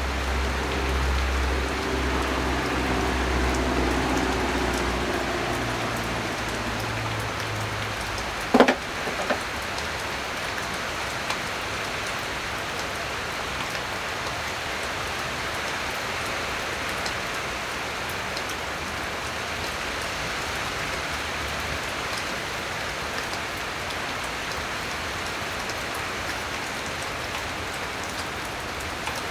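Steady rain-like hiss throughout, with a low droning hum over the first eight seconds and a single sharp knock about eight and a half seconds in.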